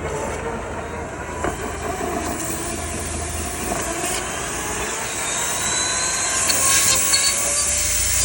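Dryer vent cleaning equipment running: a steady motor noise with a faint wavering whine and a rushing hiss of air, which grows louder about five seconds in.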